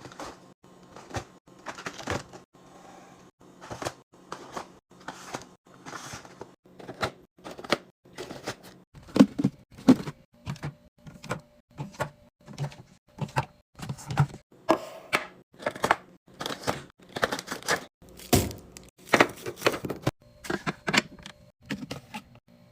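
Food packages and plastic containers being handled and set into a fridge: a quick, uneven run of clicks, taps and knocks, with a few heavier thuds from about nine seconds in.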